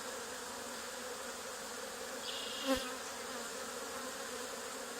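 Honey bee swarm buzzing steadily as the bees march into a box holding their queen. A single short knock sounds about halfway through.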